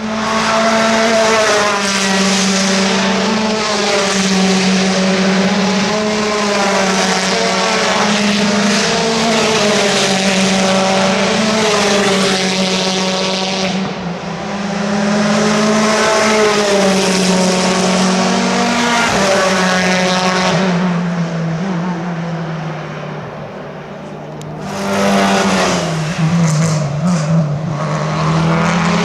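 Racing cars at speed on the circuit, several engines at high revs overlapping as a group goes by, their pitch rising and falling with gear changes. The sound eases briefly about halfway, fades to a lull later on, then swells again as more cars arrive.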